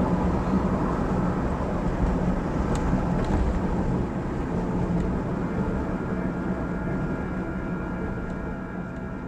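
Steady vehicle running noise: engine hum and road rumble, easing off slightly toward the end.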